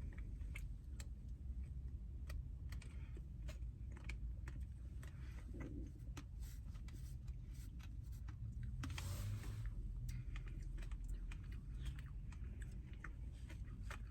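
Close-miked eating sounds: scattered small mouth clicks and smacks of chewing over a steady low hum, with a brief hiss about nine seconds in.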